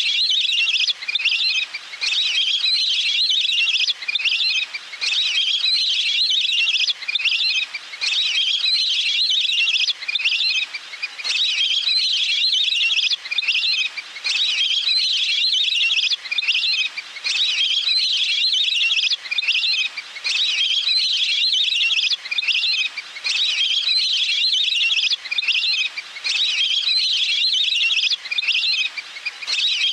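Recorded call of a water bird played on and on as a lure: high-pitched trilling calls in phrases of a second or two, repeating with short breaks between them.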